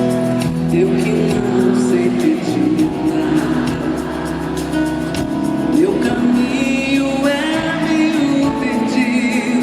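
Live band music with steady held bass notes and sustained pitched chords, loud throughout; some wavering higher voices or instrument lines come in near the end.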